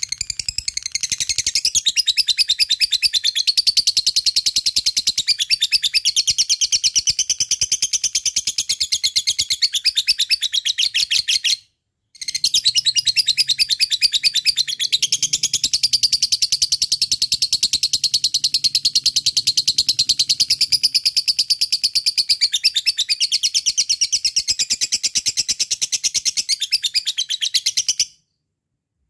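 A lovebird's long 'ngekek' song: a loud, very fast, high rattling chatter held unbroken for about eleven seconds, a brief pause, then a second bout of about sixteen seconds that stops suddenly near the end.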